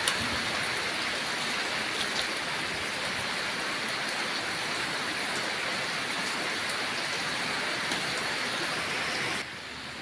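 Steady rain, an even hiss that drops off suddenly near the end.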